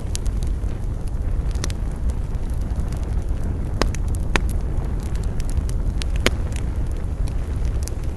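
Campfire burning: a steady low rumble with scattered sharp crackles and pops of the burning wood, the loudest three coming about four, four and a half and six seconds in.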